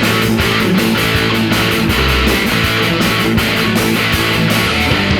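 Rock band playing an instrumental passage: strummed electric guitars over bass and a steady drum beat, with no singing.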